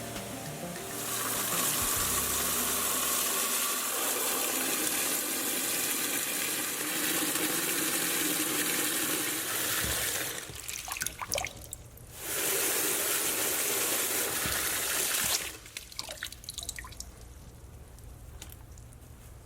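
Water spraying in two long steady hissing bursts, the first lasting about nine seconds and the second about three, followed by scattered drips and small clicks.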